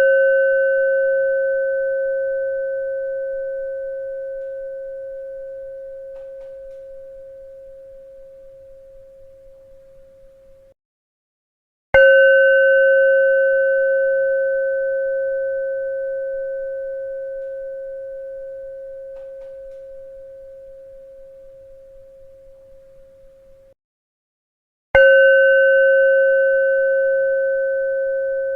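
A struck bell ringing with one low, pure tone and a few fainter overtones, fading slowly over about eleven seconds. Each ring then cuts off suddenly, and after a second of silence the bell is struck again, twice in all, in an even repeating cycle.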